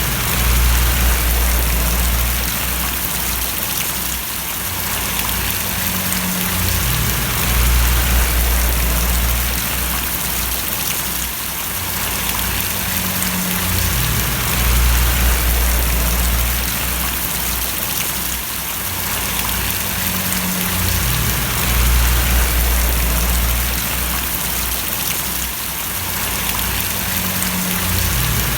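Steady rain falling and splashing, a dense, even patter. Under it a deep low rumble swells and fades about every seven seconds.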